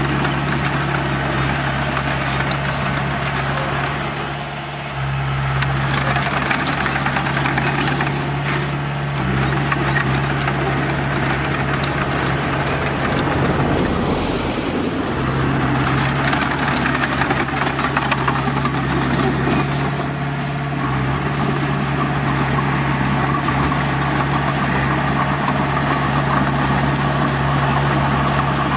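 Diesel engine of a heavy earthmoving machine running steadily, its speed dipping briefly a few times and picking up again.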